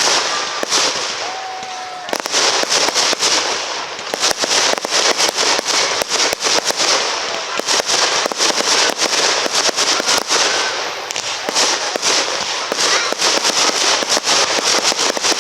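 Aerial fireworks display: a dense barrage of sharp pops and crackling bursts, many each second, loud and almost unbroken, easing briefly about two and four seconds in.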